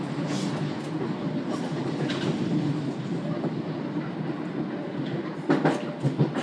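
Passenger train running at speed, heard from inside the carriage as a steady rumble. A short cluster of sharp knocks comes near the end.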